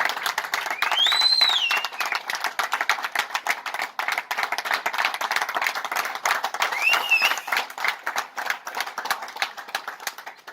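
A crowd applauding with rapid, dense hand-clapping that stops abruptly at the end. Twice a brief high tone rises and falls above the clapping.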